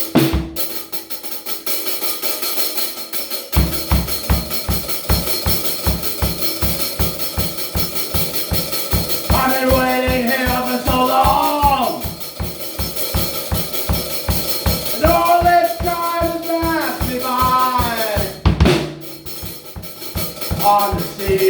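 Progressive rock band playing: a full drum kit comes in about three and a half seconds in and beats a steady, fast rhythm under sustained melodic lines that rise and fall.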